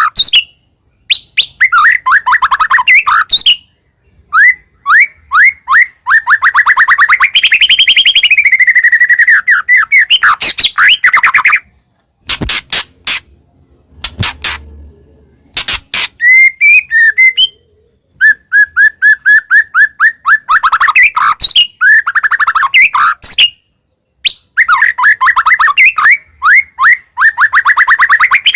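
White-rumped shama singing: loud phrases of fast repeated whistled notes and trills, broken by short silences, with a run of sharp clicking notes about halfway through.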